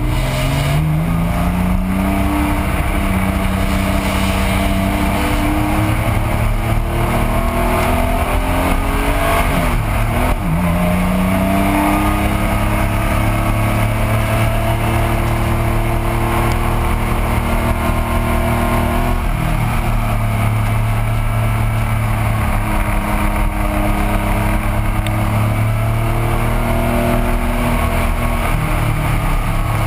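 1985 Porsche 911's air-cooled flat-six engine under racing load, heard from inside the cockpit. The revs climb hard at first, fall and climb again about ten seconds in, and drop once more about two-thirds of the way through.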